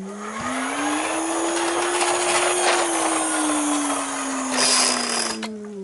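A small electric motor spins up, whirs steadily for about five seconds with its pitch sagging slightly, then winds down. There is a brief louder rattling hiss near the end.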